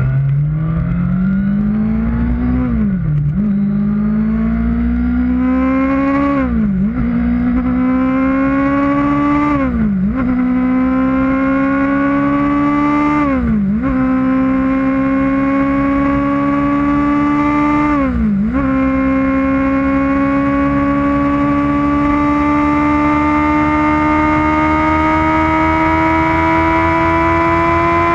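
Kawasaki Ninja ZX-6R's inline-four engine accelerating hard through the gears: the pitch rises and drops sharply at each of five upshifts. It then pulls in top gear with a slow, steady climb in pitch, over wind noise.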